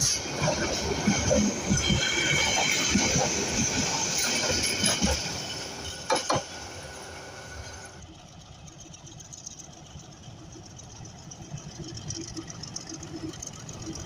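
A Bangladesh Railway train passing close by, its wheels clattering and knocking over the rail joints with a faint squeal, fading away after about five seconds. After an abrupt change it turns quieter, and an engine sound grows near the end.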